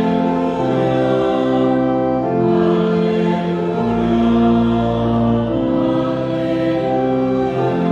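Church organ playing held chords while a congregation sings along, the chords changing every second or so over moving bass notes.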